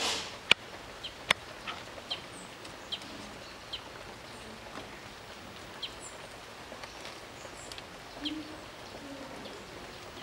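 Small birds calling: short high chirps repeated about once a second, with fainter, higher notes between them. Two sharp clicks and a brief rush of noise come in the first second and a half.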